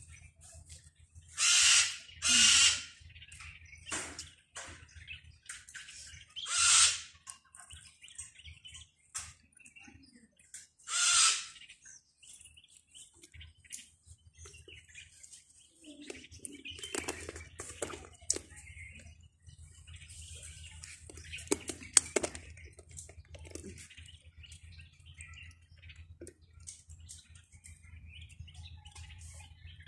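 A bird calling: four loud, harsh squawks in the first dozen seconds, then quieter chirping.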